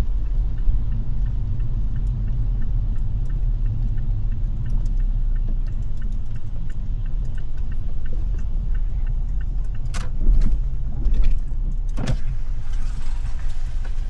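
Low, steady rumble of a car's cabin as it idles or creeps along, with a faint regular ticking. A couple of louder clunks come about ten and twelve seconds in, followed by a brighter hiss.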